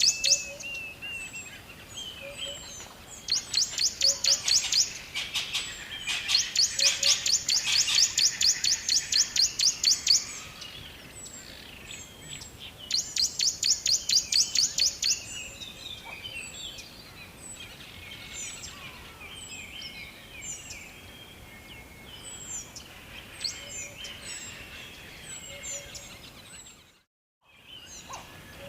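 Several songbirds singing: loud runs of rapid, evenly repeated high notes lasting a few seconds each, three times in the first half, among many short scattered chirps. Near the end the sound cuts out completely for about a second.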